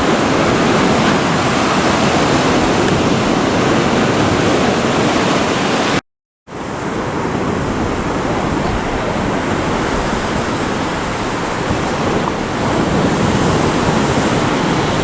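Ocean surf washing on the beach with wind on the microphone, a steady loud rush; it cuts out completely for about half a second near the middle.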